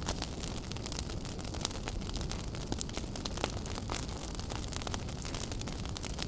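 Wood fire burning in a fireplace: a steady low rumble of the flames with frequent sharp crackles and pops, a few louder pops scattered through.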